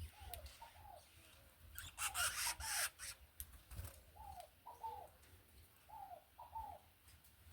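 A bird calling in short falling notes, usually in pairs, the pair coming back about every two seconds. A brief burst of rustling comes about two seconds in.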